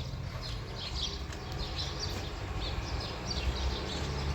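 Small birds chirping repeatedly, a few short chirps a second, over a steady low rumble.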